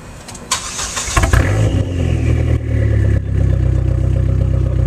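Dodge SRT-4's turbocharged 2.4-litre four-cylinder cranked by the starter, catching just over a second in with a brief flare of revs, then settling into a steady idle through a Borla exhaust and Needswing downpipe with the cutout closed. This is the first start with the new exhaust fitted.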